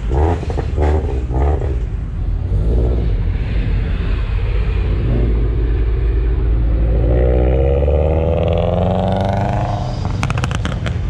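A car engine running loud and close, its pitch climbing as it accelerates in the second half, followed by a few sharp clicks near the end.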